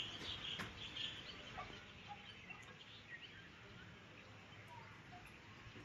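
Faint outdoor ambience with scattered short bird calls, a few more in the first second.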